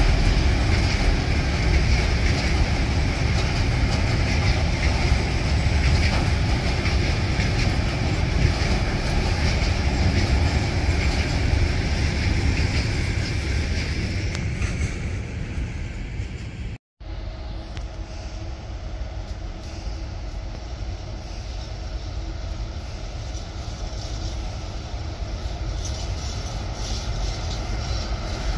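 Long container freight train rolling past, wagons rumbling and clattering over the rail joints, the noise fading as the end of the train goes by. After a sudden cut about two-thirds in, a quieter steady hum with a few held tones from a Slovenian Railways electric locomotive moving slowly with tank wagons.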